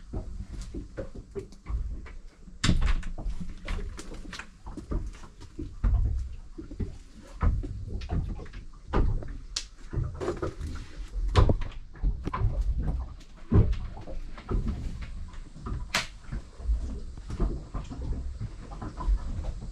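Irregular knocks and clunks, a dozen or more, over an uneven low rumble, as fittings and lids on a boat deck are handled.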